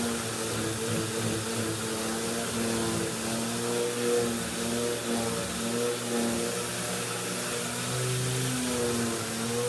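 Vacuum cleaner running steadily with a rushing hiss, its motor pitch shifting up and down as the nozzle moves over the surface.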